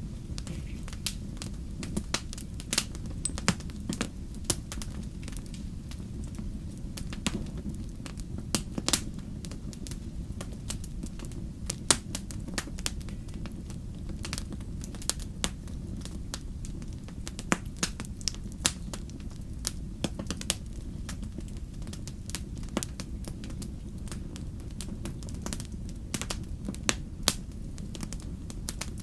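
Wood fire in a fireplace crackling: a steady low rumble of burning with frequent sharp, irregular pops and snaps.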